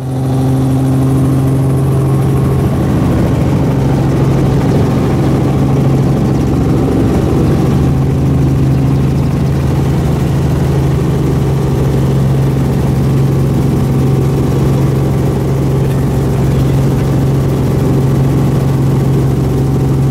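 Helicopter running with a loud, steady drone and a strong low hum that does not change.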